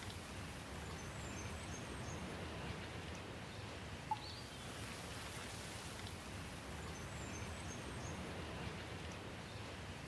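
Steady rainfall with an even hiss. Faint high bird chirps come twice, and a single short sharp tick sounds about four seconds in.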